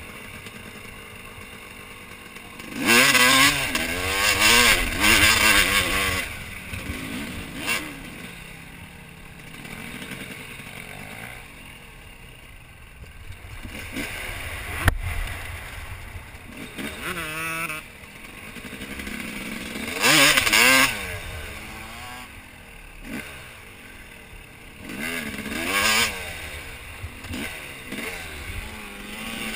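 Dirt bike engine revving in about four loud bursts, the pitch climbing and falling, with quieter running in between. A single sharp click about halfway through.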